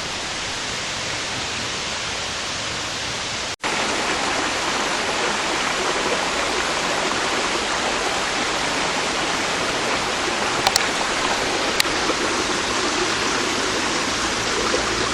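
Steady rush of running water. It cuts out briefly about three and a half seconds in, then resumes louder.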